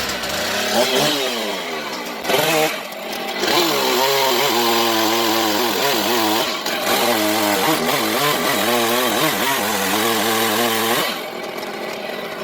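Gas chainsaw running at high revs and cutting, its engine speed wavering up and down under load, with a surge about two seconds in, then cutting off abruptly at the end. The owner suspects a slipping clutch or a dull chain for its slow cutting.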